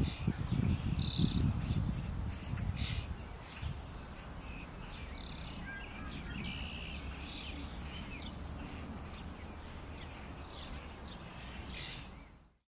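Outdoor birdsong: short high chirps repeated at irregular intervals over a steady background hiss, with a low rumble that is loudest in the first three seconds. The sound fades out near the end.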